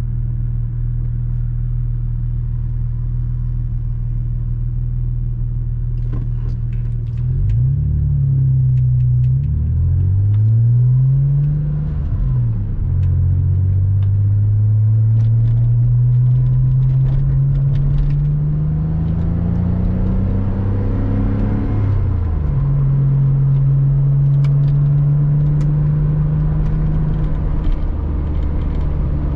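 Porsche Boxster 986 flat-six engine under way, running steadily at first. From about seven seconds in the revs climb and fall back several times, then make one long steady climb before dropping and settling at an even pitch near the end.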